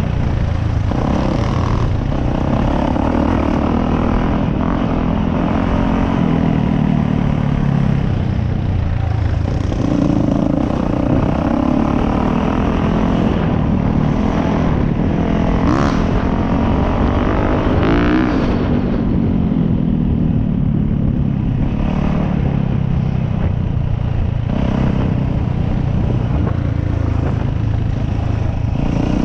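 Dirt bike engine running continuously, its pitch rising and falling again and again as the throttle opens and closes.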